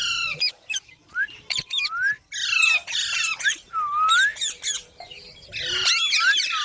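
Indian ringneck parakeets squawking and screeching: a quick run of harsh short calls, each sliding up or down in pitch. Some overlap, and the calls come thickest about two and a half seconds in and again near the end.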